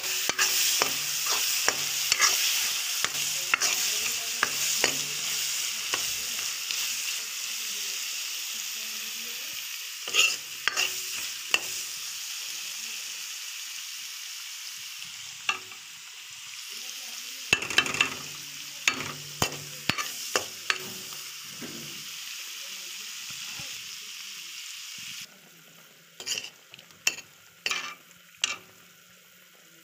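Fish pieces and potato wedges frying in oil in a kadhai, sizzling, while a metal spatula scrapes and clinks against the pan in short bursts. The sizzle slowly fades, and near the end it drops away, leaving only a few clinks of a ladle in the now liquid curry.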